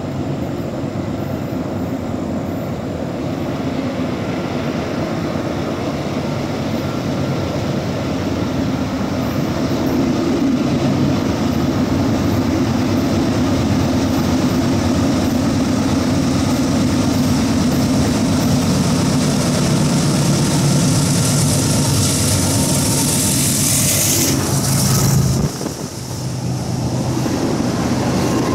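CSX diesel freight locomotives approaching and passing directly underneath, their engines running in a steady drone that grows louder. About 25 seconds in the sound drops sharply as the locomotives go under, then comes back as the tank cars behind roll past.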